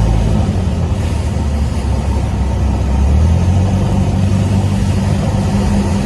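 Cessna 172's piston engine and propeller droning steadily in the cockpit on a crosswind approach, its low hum shifting slightly about halfway through.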